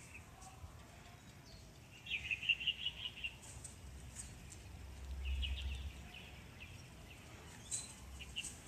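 A small bird giving quick runs of short chirps, one burst of about eight notes about two seconds in and another around the middle, with a few sharp clicks. A low rumble swells midway.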